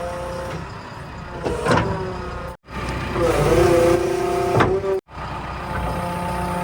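Diesel engines of heavy earth-moving machinery, a backhoe loader and tipper trucks or tractors, running steadily with a whining drone. The sound cuts off and restarts abruptly twice, about two and a half seconds in and again near five seconds.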